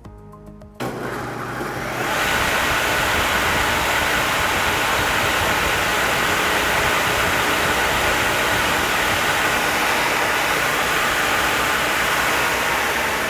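Northfield No. 8HH 30-inch planer with a helical cutterhead switched on about a second in, coming up to speed over the next second and then running steadily, free of wood.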